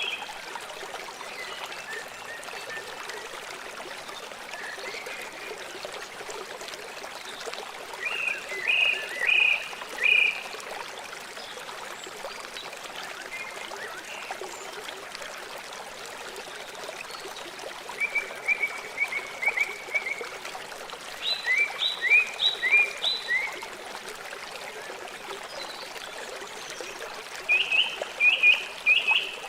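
River water flowing steadily, with several short runs of rapid, high-pitched calls from a small animal over it.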